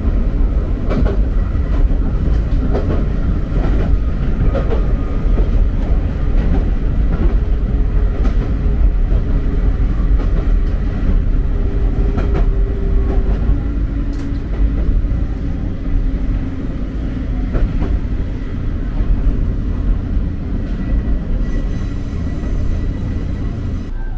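Electric train running along the track, heard from the front of the car: a steady low rumble with occasional clicks of the wheels over the rails.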